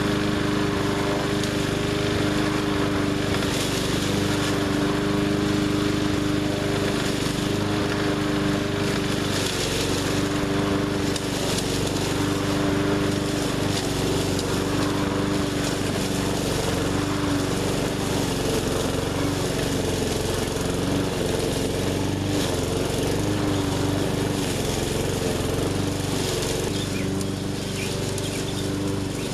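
Small gas engine of a 20-inch walk-behind push mower running steadily at working speed, its pitch wavering slightly now and then.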